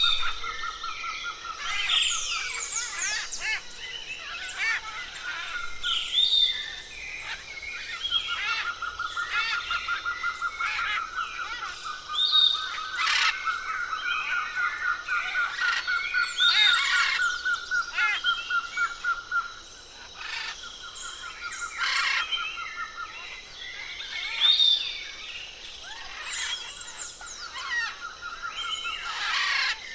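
Chorus of wild forest birds calling at once: a long, even, rapid trill that breaks off and resumes several times, under many overlapping whistles, sweeping calls and sharp chirps.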